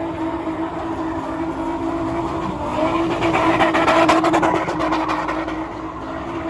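Car engine running with a steady drone, revving louder about three seconds in and easing off again.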